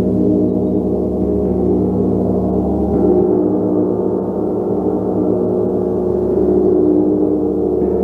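Gong being played continuously: a dense, sustained wash of overlapping ringing tones with slow swells in loudness.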